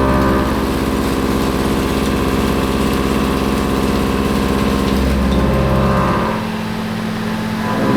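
CNC milling machine face-milling cold rolled steel with a 2.5-inch round-insert face mill: a steady spindle and cutting drone. It drops for about a second and a half near the end, then picks up again.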